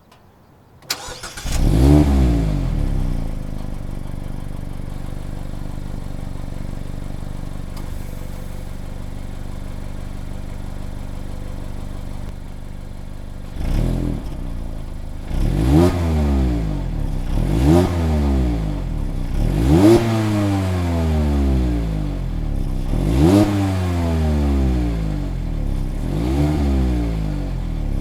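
Mazda Roadster (MX-5) ND four-cylinder engine through its stock exhaust. It starts about a second in with a rev flare that drops back to a steady idle. In the second half it is blipped six times, a small rev and then five sharper ones, each climbing and falling back to idle.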